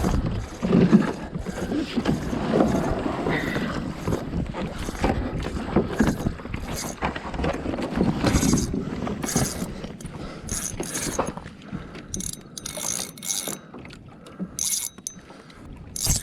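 Fishing reel working against a freshly hooked fish: irregular mechanical clicking and ratcheting, with sea and kayak hull noise underneath. The water noise is stronger in the first half, and from about twelve seconds in the reel comes in short, separate bursts of high ticking.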